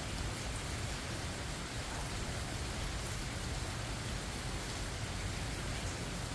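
Steady rain falling: a continuous, even hiss with a strong low rumble underneath and no separate events.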